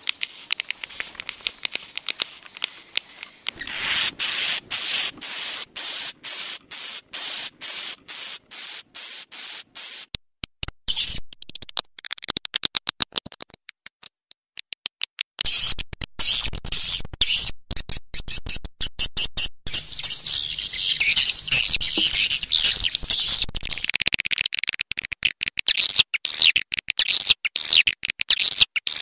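Swiftlet call recording used as a lure to draw edible-nest swiftlets into a swiftlet house. It is a high-pitched twittering: a steady whistle-like tone broken by many rapid breaks in the first third, then denser chirping in the second half.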